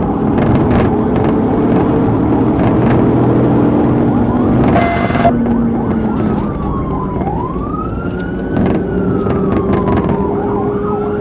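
Police siren wailing, rising and falling in pitch, over steady car engine and road noise. A short different-toned burst comes about five seconds in, and the wail stands out more clearly after that.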